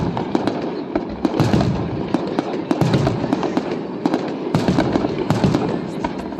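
Fireworks display: dense crackling with many overlapping sharp bangs, swelling into thicker volleys every second or two.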